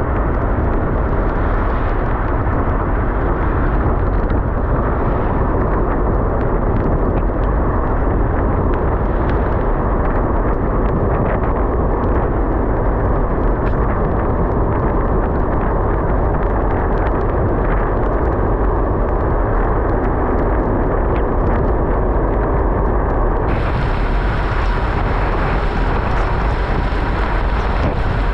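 Wind buffeting the microphone of a camera on a moving bicycle: a loud, steady, low rushing noise. The noise turns abruptly brighter and hissier near the end.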